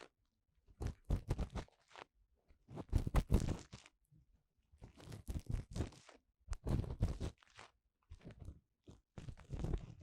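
Ear-cleaning tool working inside the silicone ear of a 3Dio binaural microphone: close, crackly scratching strokes in short bursts with brief pauses between them.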